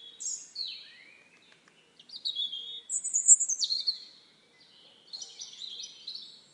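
Birdsong: quick, varied chirps and short sliding whistles, loudest about three seconds in.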